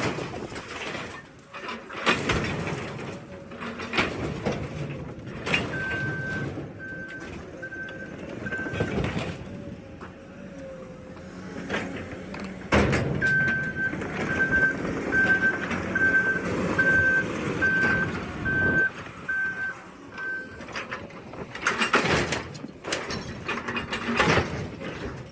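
A heavy machine's reversing alarm beeping steadily, about one or two beeps a second, in two runs over a running diesel engine. Loud metal crashes come now and then, and a cluster of them near the end.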